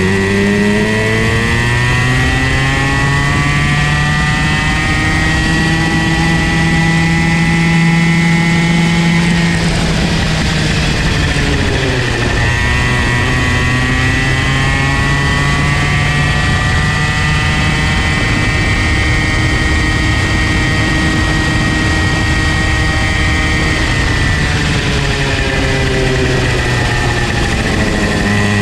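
Comer C50 two-stroke kart engine running under load, its pitch climbing steadily for about nine seconds, dropping sharply, then climbing again for about twelve seconds before another drop near the end: revving up along the straights and backing off for the corners.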